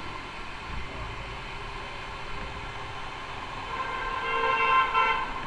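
A vehicle horn sounds one long blast of about a second and a half near the end, over steady traffic noise.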